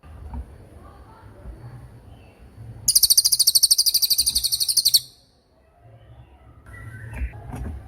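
Cililin songbird giving a 'tembakan': one loud, very high-pitched, rapid pulsed trill about three seconds in, lasting about two seconds. A low background rumble runs underneath.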